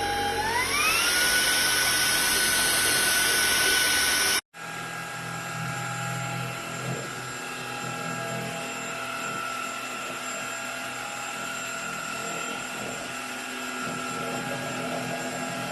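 Cordless stick vacuum's brushless motor running with a high whine that rises in pitch about half a second in as it speeds up to a higher power setting. After an abrupt cut at about four seconds, it runs steadily and a little quieter.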